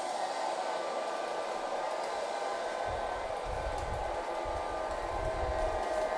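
iLife V5 robot vacuum cleaner running, its motor whirring steadily; a low rumble joins about three seconds in.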